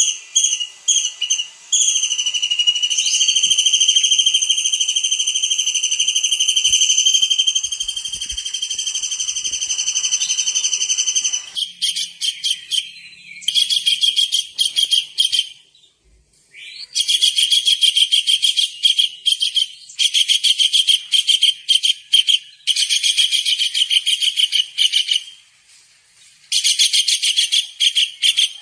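Tengkek udang (small kingfisher) calling: a few short high notes, then one long steady high whistle lasting about ten seconds, then several bursts of fast, rapidly repeated high notes with short pauses between them.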